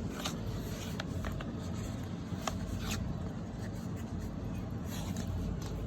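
Scattered metal clicks and scrapes of a can of dog food being opened and handled one-handed, over a steady low rumble.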